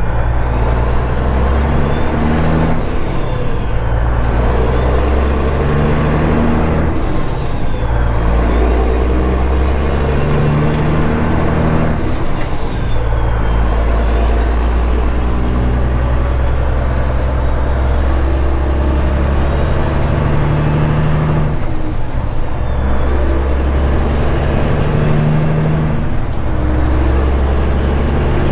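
Straight-piped Caterpillar 3406E diesel truck engine pulling up through the gears, its note climbing and dropping back with each of several shifts. A high turbo whistle rises and falls along with it.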